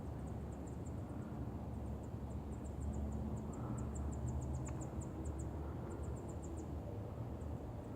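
An insect, cricket-like, chirping in trains of very high, rapid ticks, several a second, over a steady low rumble.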